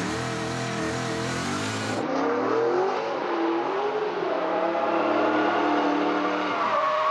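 Audi A5 drift car's engine revving while drifting. The pitch rises and falls as the throttle is worked, holds high for a couple of seconds, then drops near the end; the first two seconds are heard from inside the cockpit.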